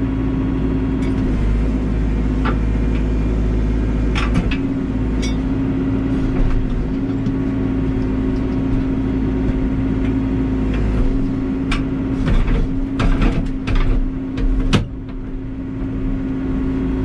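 Backhoe's diesel engine running steadily, with scattered sharp knocks and clatters, a few about four seconds in and a cluster near the end.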